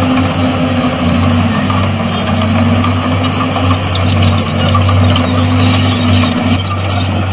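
Heavy diesel engine of earthmoving machinery running steadily under load, a deep steady hum with mechanical clatter over it.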